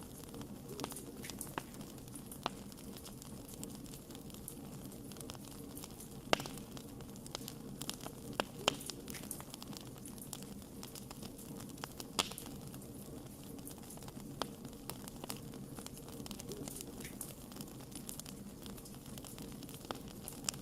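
Wood campfire burning, with a steady low rush and irregular crackling. A few sharper pops stand out about 6, 9 and 12 seconds in.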